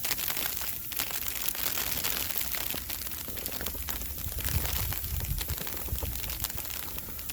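Wind of a snowstorm gusting across the microphone, an uneven low rumble under a steady crackling hiss.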